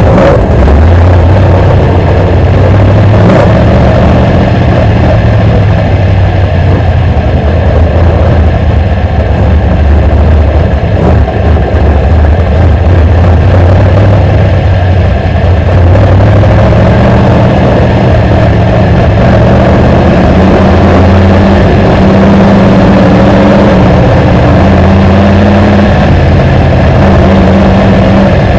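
BriSCA F1 stock car's V8 engine heard from on board, loud and continuous, its pitch rising and falling as the car accelerates and lifts off around the oval.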